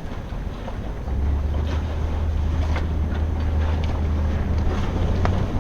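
Strong wind buffeting the microphone in heavy gusts, a loud low rumble that picks up about a second in, with faint clicks and knocks from the boats in the wind.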